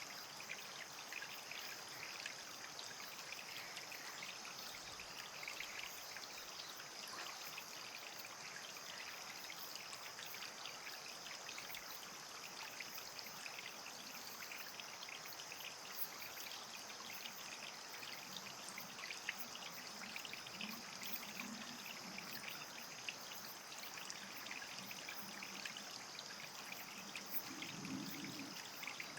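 Water trickling and running steadily, with many small ticks and splashes.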